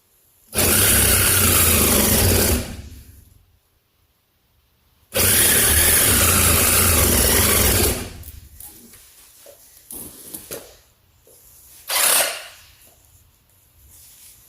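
Cordless reciprocating saw cutting metal in two runs of about two and three seconds, each starting and stopping abruptly, with a short burst near the end.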